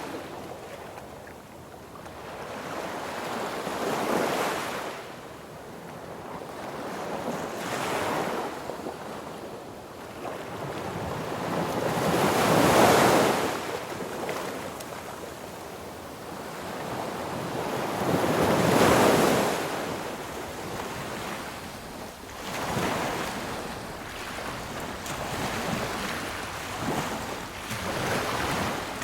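Sea waves breaking on a beach: surf swells and washes back in repeated surges a few seconds apart, the two loudest about a third and two-thirds of the way through.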